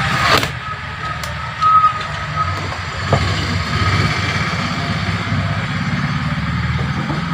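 Steady low mechanical rumble, like an engine running, with a short high beep about two seconds in.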